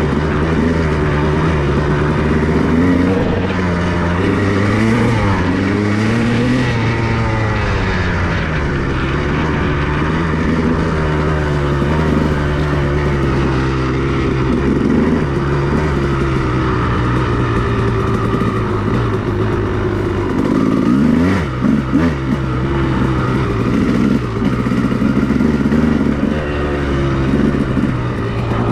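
2002 Honda CR250R's 250 cc two-stroke single-cylinder engine running while being ridden, the revs rising and falling as the throttle is worked. About two-thirds of the way through, the throttle snaps shut and opens again.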